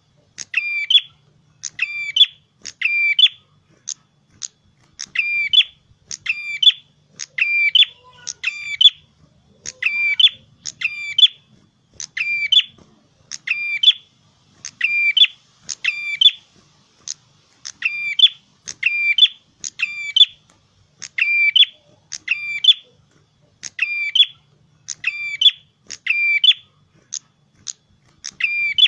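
Prenjak kepala merah, a prinia, calling incessantly: sharp, hooked chirps repeated in quick runs of two or three, a couple of notes a second, with barely a pause.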